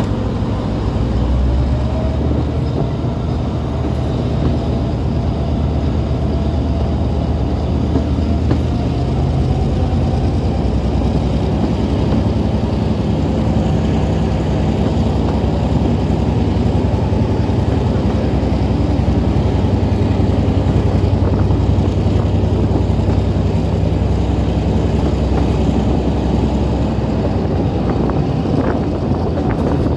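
Diesel train running, a steady low rumble that swells slightly around the middle and eases a little near the end.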